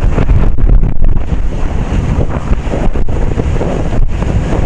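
Wind buffeting the microphone of a motorcyclist riding at speed: a loud, steady rushing rumble, heaviest in the low end.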